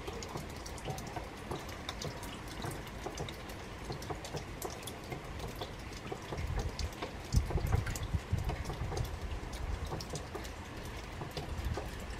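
Steady rain falling, heard as a hiss dotted with many small, irregular drop ticks. A low rumble swells for a couple of seconds past the middle.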